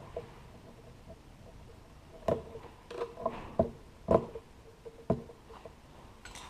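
Hand tools and small metal parts clinking and knocking as they are handled, about six sharp knocks between two and five seconds in, some with a short metallic ring.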